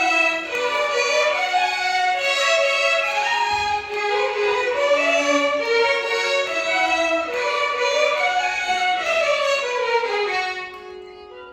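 Violins playing a Carnatic melody as one line, stepping and sliding between notes. The playing drops to a much softer level about ten and a half seconds in.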